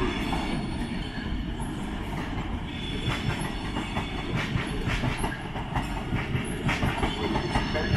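London Overground Class 710 electric multiple unit running past at low speed, its wheels clicking repeatedly over rail joints and pointwork, with faint high wheel squeal.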